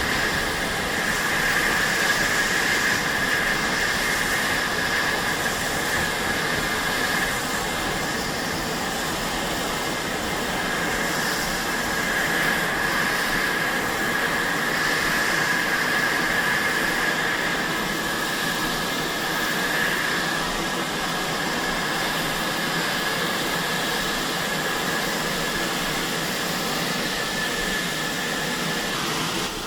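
Train hauled by a GWR pannier tank steam locomotive, heard from on board while running: a steady rushing ride noise with a continuous high-pitched squeal over it, which eases a little near the end.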